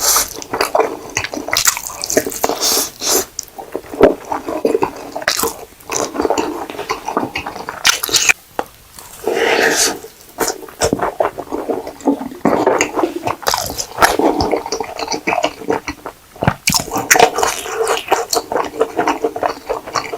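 Buldak ramen noodles with cheese being slurped and chewed, with wet mouth sounds and irregular smacks, and one longer slurp about nine seconds in.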